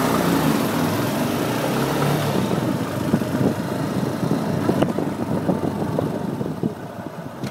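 Yamaha Lander 250's single-cylinder engine running near idle with an irregular ticking and knocking: the strange noise the owner is asking about. It eases off and gets quieter near the end.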